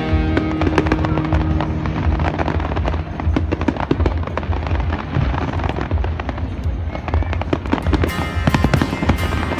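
Aerial fireworks bursting and crackling in quick succession, over loud show music playing through loudspeakers.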